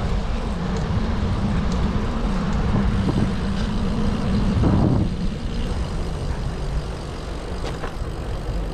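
Road traffic noise with low rumbling, a vehicle passing loudest about five seconds in, after which the noise eases.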